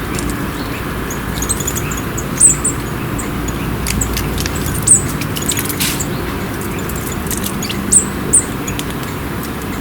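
Small songbirds at a feeding spot giving a few short, very high, thin chirps, loudest about two and a half, five and eight seconds in, with faint scattered clicks among them. A steady low rumble runs underneath.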